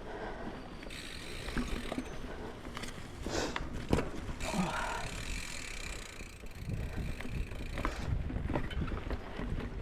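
Mountain bike climbing a dirt trail: tyres rolling and crunching over the ground, with the bike rattling and a few sharp clicks and knocks, the loudest about four seconds in.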